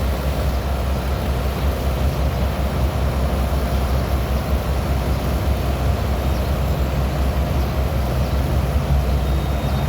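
Steady low outdoor rumble with no distinct events, heaviest in the deep bass.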